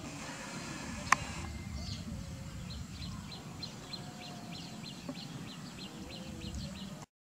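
A bird calling a quick run of short, high, downward chirps, about four a second, for several seconds, over a low steady outdoor background rumble. A single sharp click comes about a second in.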